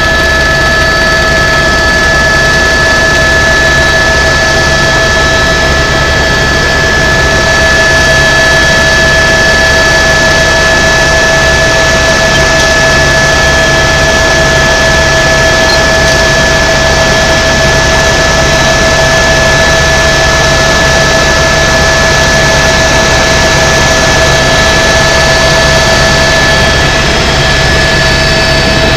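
Tour helicopter's turbine engine and rotors running steadily and loudly: a steady whine of several pitches over an even rush of noise and a low hum.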